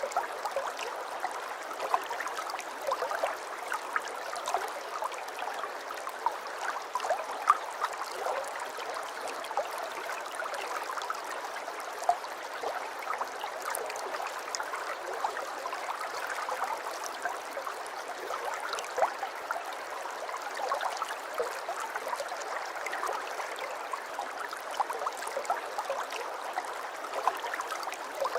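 Aquarium water trickling steadily, with many small splashes and pops throughout.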